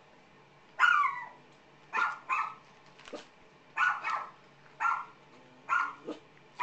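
A pet dog barking repeatedly, about nine barks mostly in quick pairs; the first bark is longer and falls in pitch.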